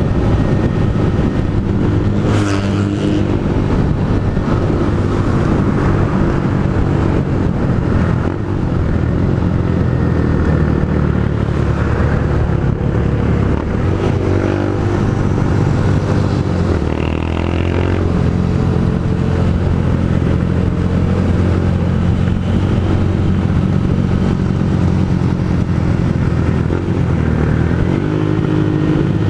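Honda CG Fan 160's single-cylinder engine running through a Pro Tork GP Competition aftermarket exhaust while riding. Its pitch rises and falls several times as it accelerates and shifts gears. There is one sharp click about two seconds in.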